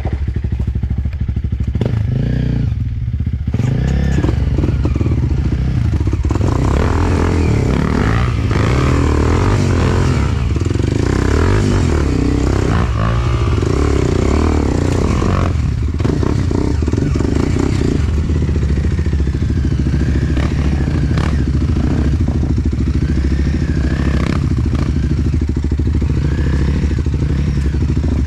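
Enduro dirt bike engine revving hard and unevenly as the bike climbs a rutted gully, with clatter from the bike over the rough ground.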